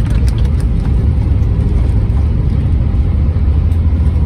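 Steady low rumble inside the cabin of an Airbus A320 rolling on the ground after landing: engine and wheel noise.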